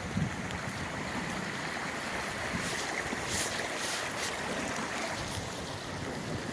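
Steady storm wind blowing over the microphone, a constant noisy rush with a little crackle in the middle.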